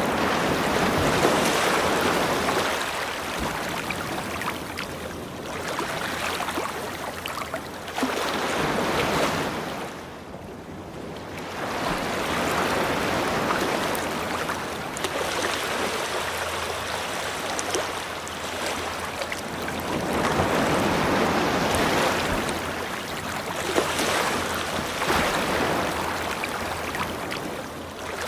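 Ocean surf washing onto a beach, swelling and falling away every few seconds, with a short lull about ten seconds in.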